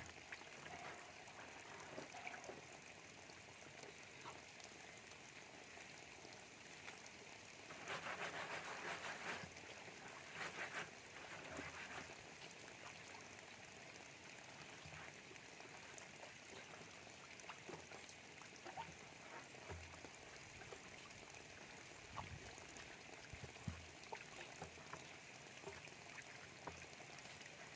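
Faint, steady trickling of water at a river source. Two brief louder noises come about eight and ten seconds in, and a few light knocks are scattered through.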